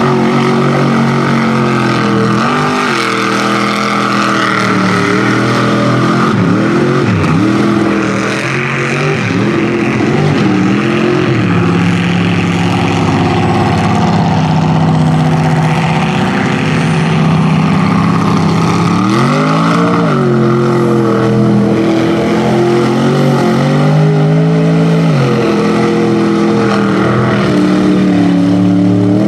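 Rear-engine Dodge mud truck's engine running at high revs as it bogs through the mud, loud and continuous; its pitch drops and climbs back several times as the throttle is worked, then holds high for long stretches.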